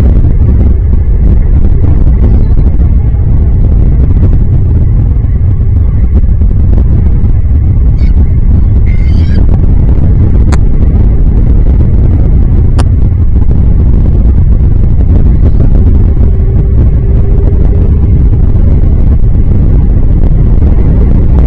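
A loud, steady low rumble throughout, with brief higher calls about eight and nine seconds in and two sharp clicks shortly after.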